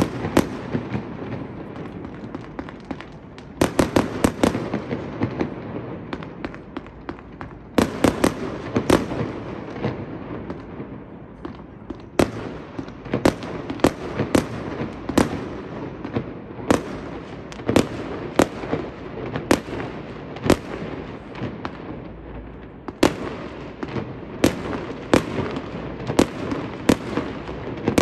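Fireworks display: aerial shells bursting in a long run of sharp bangs, bunched in quick clusters about 4 and 8 seconds in and then coming roughly once a second, over a continuous noisy background.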